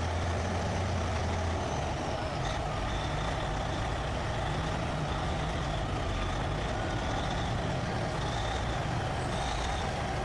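Heavy truck engine running steadily, with a reversing alarm beeping over it.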